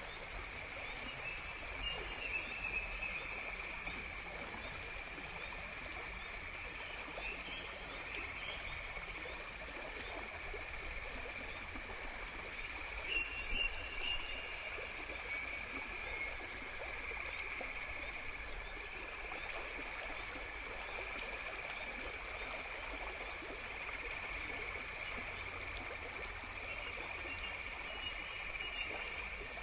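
Nature ambience: a steady chorus of calling insects over a low rush of running water, with short fast chirping trills near the start and again about 13 seconds in.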